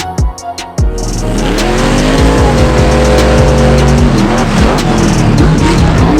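Monster truck engine at racing throttle. It is choppy for the first second, then runs loud and steady with a deep rumble, its pitch rising and falling as the throttle changes.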